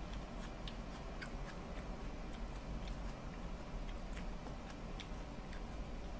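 Close-up chewing and lip smacking while eating rice and curry: scattered small wet mouth clicks at an irregular pace, over a low steady hum.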